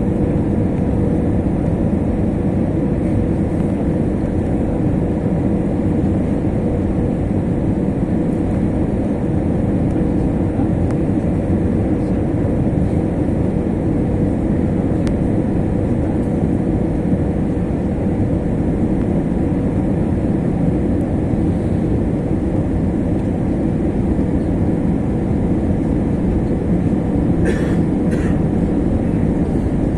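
Steady low rumble of an Airbus A321's engines and airflow heard inside the cabin, with a faint steady hum running through it. A brief scratchy rustle comes near the end.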